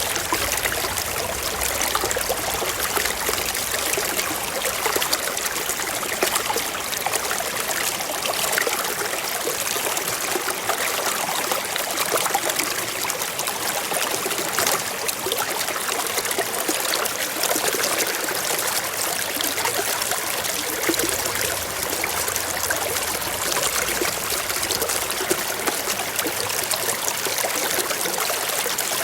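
Shallow stream running and trickling over rocks, a steady, even rush of water.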